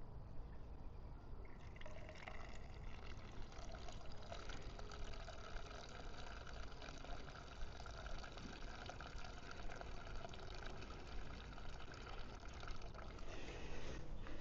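Gasoline pouring into an empty steel motorcycle fuel tank, a steady hissing wash with a hollow ringing note from the tank. It starts about two seconds in and stops shortly before the end. The gas is there to soak up the water left from rinsing out the rust remover.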